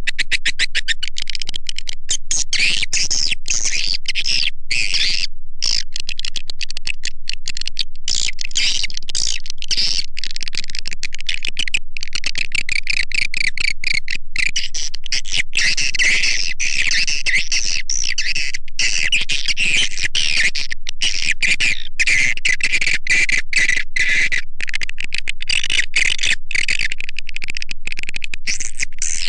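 Swiftlet lure-call recording: a dense, continuous chatter of rapid twittering chirps and clicks from many edible-nest swiftlets, played to draw the birds into a nest house.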